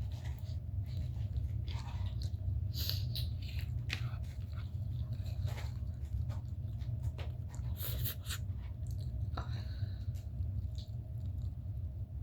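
Close-up chewing of fried and scrambled egg, with irregular wet mouth clicks and smacks, over a steady low hum.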